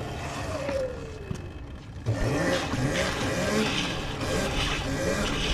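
Sur-Ron electric dirt bike's motor whining. Its pitch falls away over the first two seconds, then rises and falls with the throttle, with tyre and ground hiss underneath.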